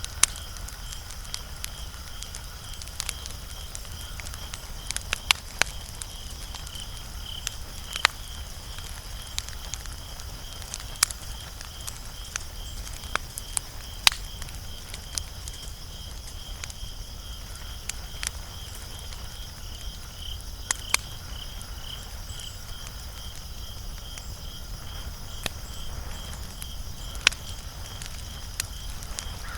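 Wood fire crackling, with sharp irregular pops scattered throughout. Under it runs a steady, rapidly pulsing high chirping, as from an insect.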